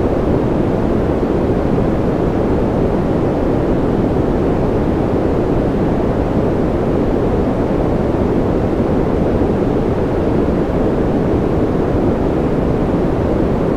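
Steady artificial noise of the kind played for sleep, sold as white noise: an even, unchanging rush, heaviest in the low and middle range and softer in the highs.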